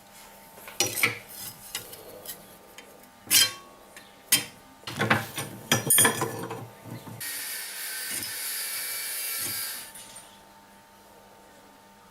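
Metal parts and tools being handled, giving a series of sharp knocks and clanks. A steady hiss follows for about three seconds.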